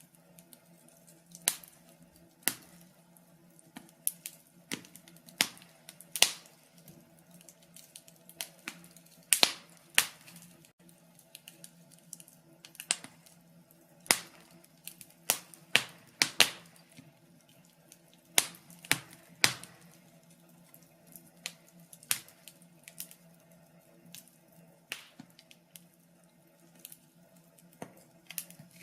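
Wood fire crackling in a fireplace: irregular sharp pops and snaps, about one or two a second, with a few louder cracks around the middle, over a faint low steady hum.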